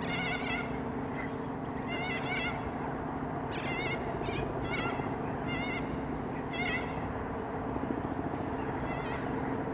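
An animal calling over and over: short, wavering, high cries spaced about a second apart, over a steady low hum.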